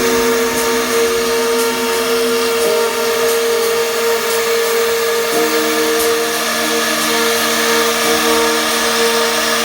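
CNC router running: a steady mechanical whine made of several held tones that change pitch every few seconds as the machine's moves change, over a light hiss with faint ticks.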